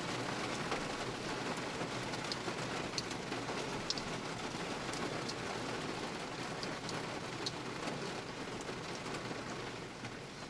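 Heavy rain falling steadily, with scattered sharper ticks of individual drops striking.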